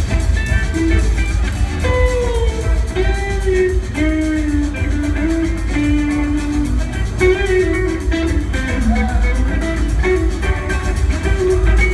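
A live rock band jams: an electric guitar plays a lead line of bending, gliding notes over drums and a heavy bass.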